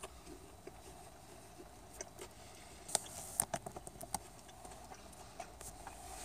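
Faint eating sounds: chewing with scattered small wet mouth clicks and ticks, a few louder ones about halfway through.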